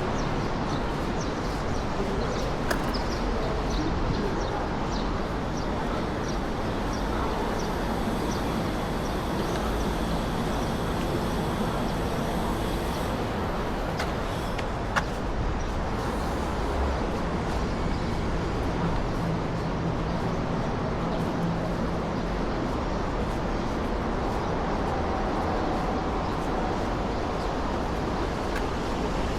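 Steady noise of road traffic, with faint regular ticks in the first several seconds and a single sharp click about halfway through.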